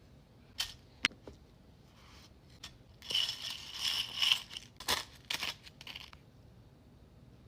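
Close-miked crunching and crackling, as of food being bitten or its packaging being handled: a couple of sharp clicks, then from about three seconds in a second and a half of dense crackle followed by a few more sharp snaps.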